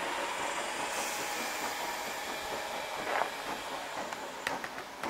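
Class 313 electric multiple unit running away along the line, its rumble slowly fading. A brief high hiss comes about a second in, and a few sharp clicks come near the end.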